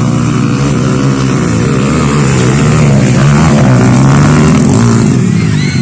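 Trail motorcycle engine running hard, its pitch rising and falling as the throttle is worked, loudest about three to four seconds in.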